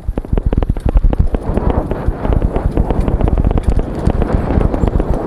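Action-camera helmet mount rattling and knocking rapidly against the helmet as the mountain bike rolls over rough trail, with wind buffeting the microphone underneath.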